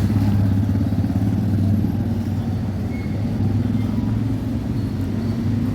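A motor vehicle's engine running steadily: a constant low drone with road noise.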